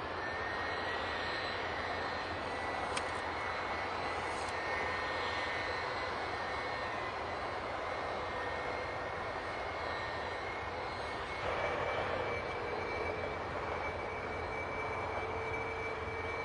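Jet airliner engine running steadily: an even rush with a high whine. About two-thirds of the way through it grows slightly louder, and a lower tone slowly drops in pitch.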